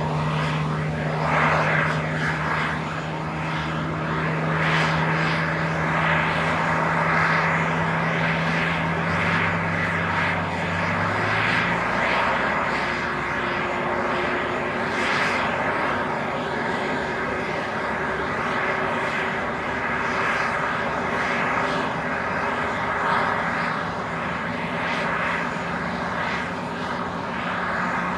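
Airbus A320neo's CFM LEAP-1A turbofan engines running steadily on the ground, a continuous jet rush. A steady low hum underneath cuts off about twelve seconds in.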